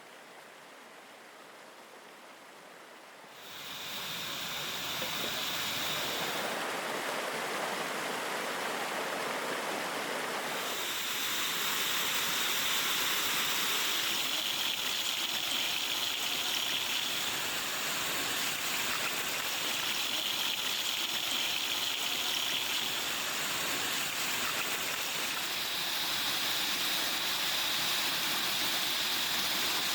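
Steady rush of falling water from a waterfall and its stream, quieter at first and then louder from about three and a half seconds in.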